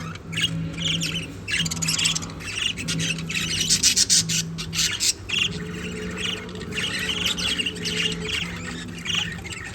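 Several budgerigars chattering with fast, scratchy squawks and chirps, loudest and busiest about four seconds in. A steady low hum runs underneath.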